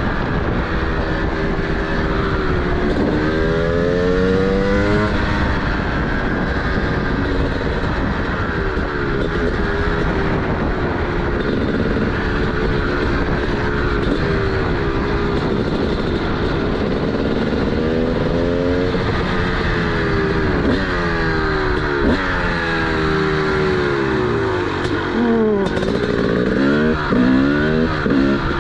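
TM SMR 300 two-stroke single-cylinder supermoto engine with a DBR aftermarket exhaust, revving up and dropping back through the gears while riding. The pitch swings more quickly and more often near the end.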